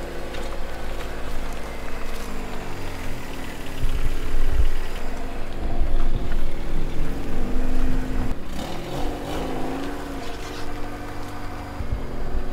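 Honda Civic hatchback's engine running as the car moves off slowly, its note falling and rising with the throttle and loudest in the middle stretch.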